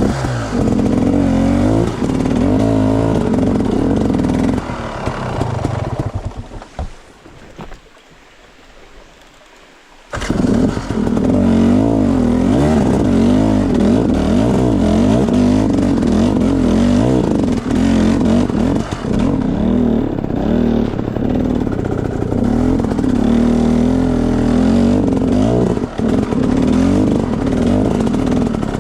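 Enduro dirt bike engine revving up and down as it is ridden, the pitch rising and falling constantly. It drops away to a low level for a few seconds midway, then comes back abruptly and keeps revving hard.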